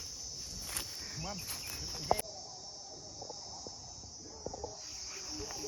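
Steady high-pitched drone of forest insects such as crickets, with a few faint short clicks and a sharp click about two seconds in.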